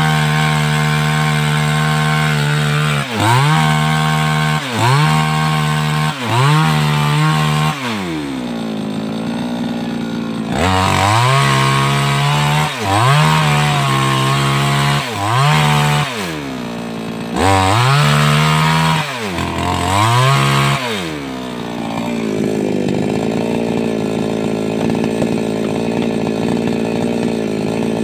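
A 588X petrol chainsaw cutting through sengon wood: the two-stroke engine runs at high revs, its pitch dipping and climbing back every second or two as the chain loads up in the cut. For the last six seconds it settles into a steady, lower run.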